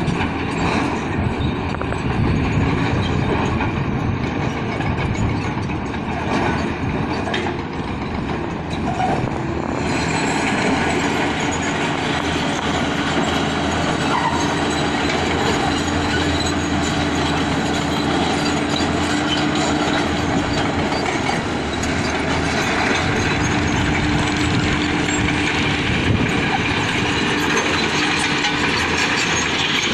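Diesel engine of crawler earthmoving machinery running steadily under work, a loud continuous mechanical rumble with a steady hum underneath, getting louder and brighter about ten seconds in.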